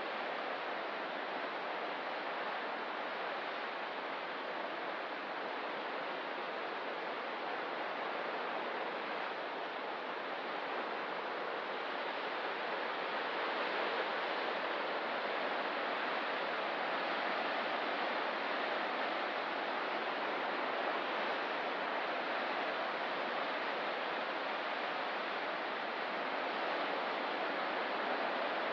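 Ocean surf making a steady, even wash of noise, with no single breaking wave standing out.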